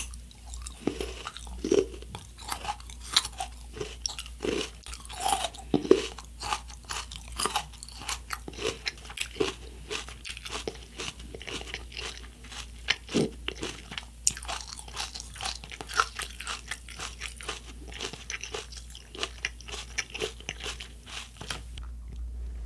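Close-miked chewing and crunching of firm fresh coconut flesh: many irregular crisp crunches as it is bitten and chewed, the loudest about six seconds in.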